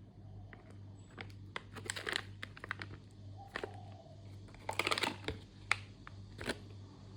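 Plastic ration packaging being handled: crinkling and crackling, with denser bursts about two seconds in and about five seconds in.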